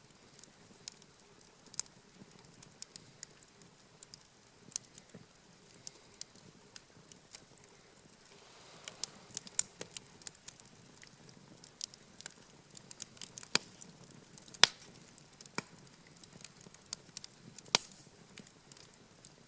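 Wood campfire crackling, with irregular sharp snaps and pops from the burning wood, the loudest a little before the end. A soft rushing swell comes in about eight seconds in.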